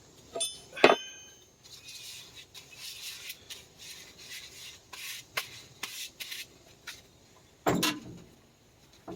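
Two sharp metallic clinks with a short ring, then scattered clicks and rustling of tools and parts being handled, and a heavier knock near the end.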